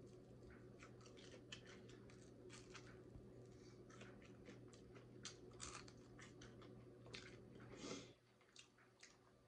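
Faint chewing and crunching of crispy fried chicken, with small clicky mouth sounds as meat is bitten off the bone. It goes quiet about eight seconds in.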